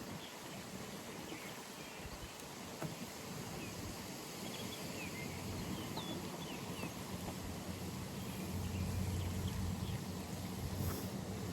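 Outdoor pond ambience: scattered short bird chirps over a steady hiss, with a low hum swelling in the second half.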